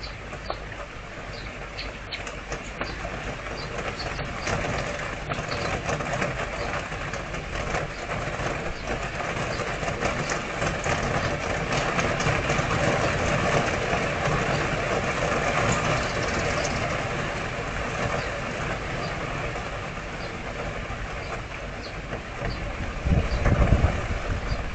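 Steady rain falling in a rain storm, a continuous hiss that grows heavier for several seconds midway, with a low rumbling near the end.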